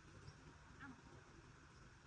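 Near silence: faint rural background with a few soft high chirps near the start and one short falling chirp about a second in, over a low steady hum.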